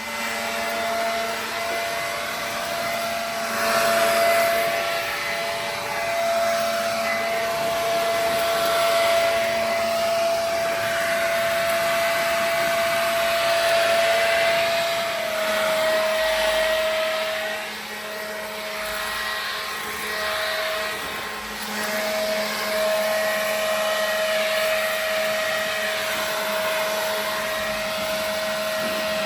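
Small electric motor running steadily with a whine and a lower hum over a rushing hiss; the whine drops slightly in pitch about halfway through and falters briefly a few times.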